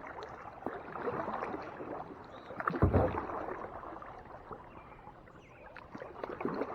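Kayak paddle strokes: the blades dipping and pulling through lake water with splashes and drips, the strongest stroke about three seconds in.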